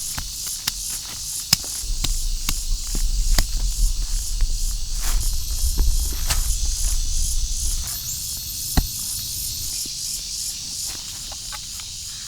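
Steady high buzzing of forest insects, with scattered sharp clicks and knocks and a low rumble partway through.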